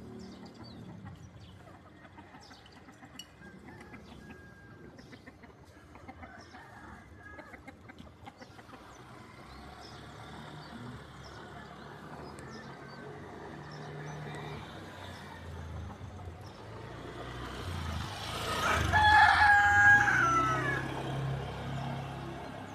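A rooster crows once, loud and drawn out, a few seconds before the end, over a faint background of scattered small ticks.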